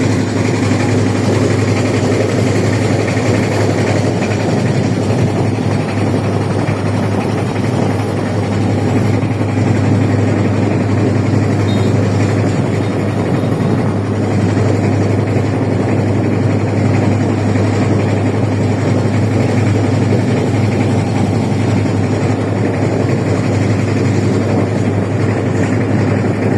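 A boat's engine running steadily at a constant speed, a low even drone with no change in pitch.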